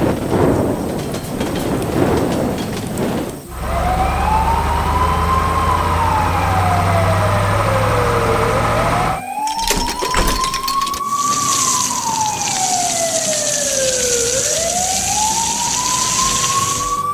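Emergency-vehicle siren wailing, its pitch slowly rising and falling about every five to six seconds, over a low vehicle engine hum. It starts after a few seconds of rough noise. A short run of clicks comes about ten seconds in, and a high hiss joins after that.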